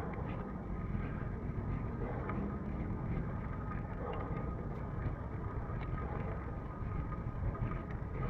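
Steady muffled rumble of wind and road noise from a moving vehicle, with a faint steady thin whine.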